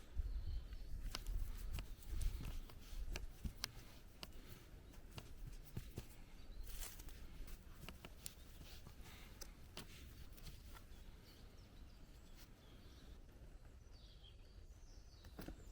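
Quiet forest ambience with scattered, irregular small clicks and snaps, a low rumble in the first few seconds, and faint bird calls near the end.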